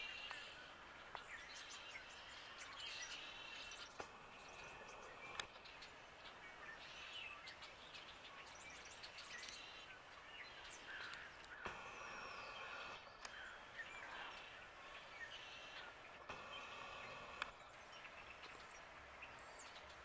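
Faint small birds chirping and calling, many short high notes scattered through, with a few sharp clicks.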